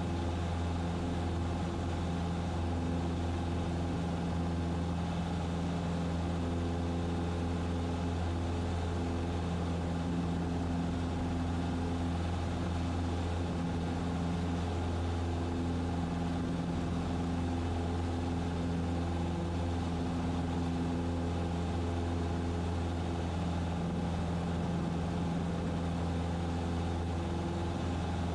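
Cessna 150's Continental O-200 four-cylinder engine and propeller running steadily at takeoff power during the climb-out just after lift-off, a constant drone heard inside the cabin.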